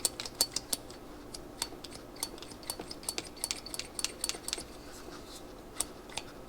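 Irregular light metallic clicks and clinks from small carburetor parts being handled and worked during reassembly, a few with a brief ring.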